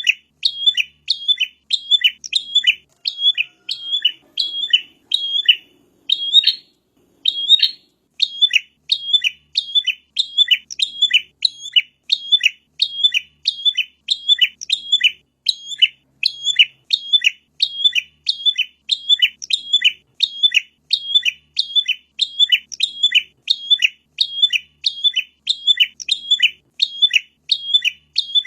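A prinia (prenjak) calls a sharp, repeated chirp at a steady rate of about two notes a second. There is a short break in the rhythm about six seconds in.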